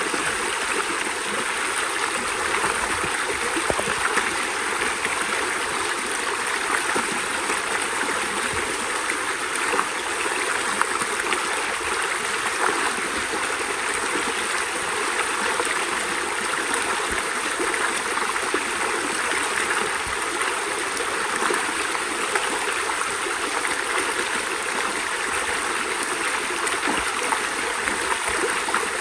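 Steady rush of a stream's flowing water, even and unbroken throughout.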